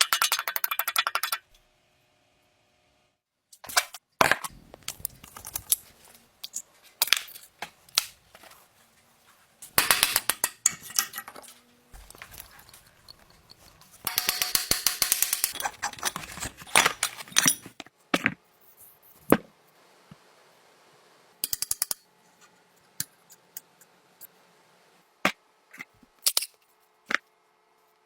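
Workshop tool noise: irregular bursts of rapid metallic clicking and scraping, each lasting up to about two seconds, with short pauses between them.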